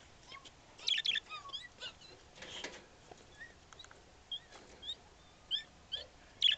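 Pet birds chirping: a scattered run of short, high chirps and peeps that slide up and down in pitch, busiest about a second in and again near the end.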